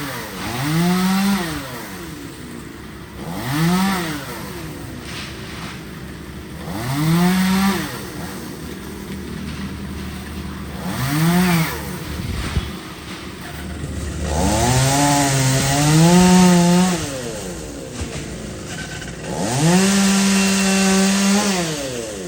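Two-stroke chainsaw revving up and falling back to idle in short bursts, five times, then held at high revs for about two seconds twice in the second half.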